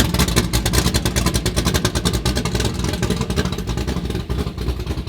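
A car engine running at a steady idle, with a fast, even pulsing exhaust beat.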